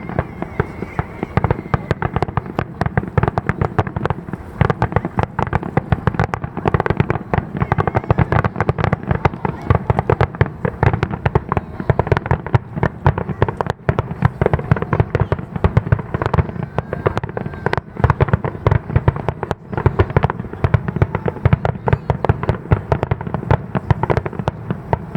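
Fireworks finale barrage: a dense, unbroken rapid-fire string of aerial shell bursts and crackling reports, many bangs a second, heavy in the low end.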